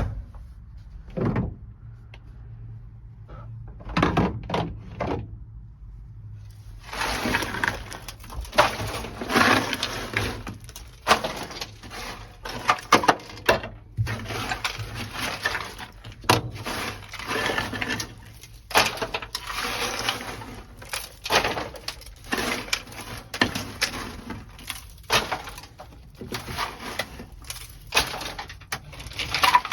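A few knocks, then from about a quarter of the way in, dense irregular cracking and scraping: brittle sound-deadening mat, frozen with dry ice, being knocked loose and broken off the car's sheet metal.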